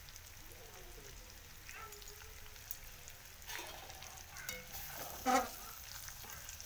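Chicken pieces in thick masala gravy sizzling in a kadai on a gas burner, with a ladle stirring in the pan. A brief louder sound comes about five seconds in.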